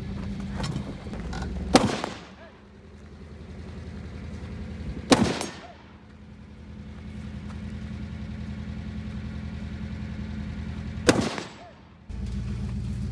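Three single gunshots, slow and unevenly spaced: one about two seconds in, one about three seconds later, and the last about six seconds after that, each with a short echo. A low steady rumble sits underneath, drops away after the first shot and comes back abruptly near the end.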